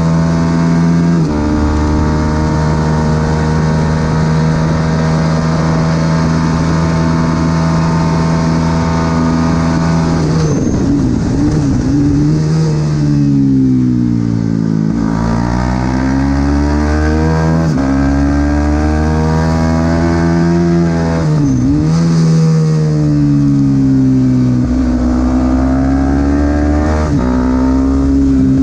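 Supersport 300 race motorcycle engine at racing speed. It holds a high steady note for about ten seconds, then drops in pitch as it is shifted down under braking. It climbs back up through the gears in rising steps, dips sharply again about 22 seconds in, and runs steady near the end.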